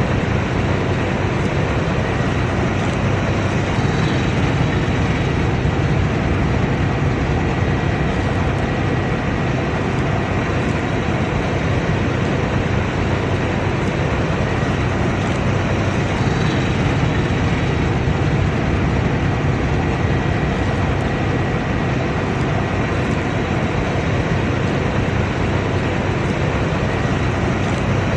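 Combine harvester running at work: a steady, loud engine and machinery noise with a faint high whine running through it.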